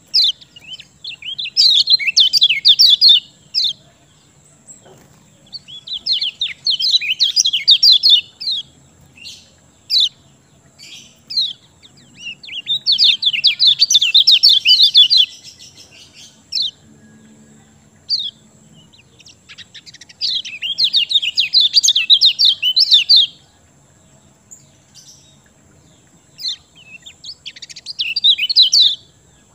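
Kecial kuning songbird singing in five rapid, chattering bouts of about two to three seconds each, with single short call notes between them. The song is a lure recording meant to get quiet kecial kuning to start singing.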